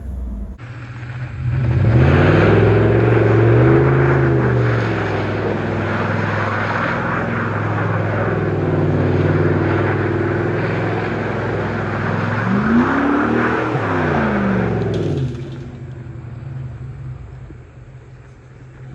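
Straight-piped Jeep Grand Cherokee exhaust idling and being revved up and back down twice, once a couple of seconds in and again about two-thirds of the way through, then settling to a quieter idle near the end.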